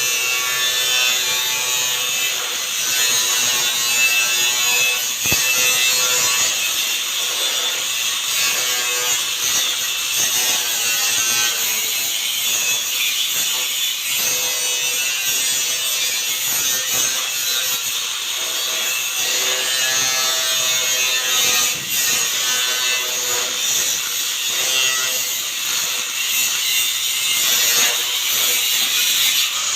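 Power cutting tool cutting steadily, a continuous hissing cut with a shifting motor whine underneath, and a sharp click about five seconds in.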